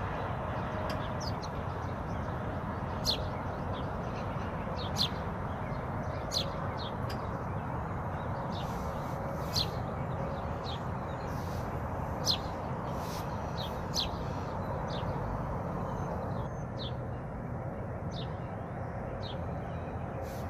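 Songbirds giving short, sharp high chirps again and again at an uneven pace, over a steady low background noise.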